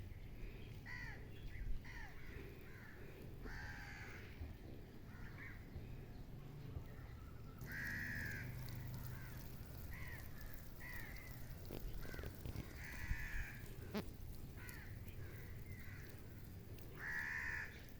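Birds calling. Longer harsh calls come every few seconds, with short calls in between.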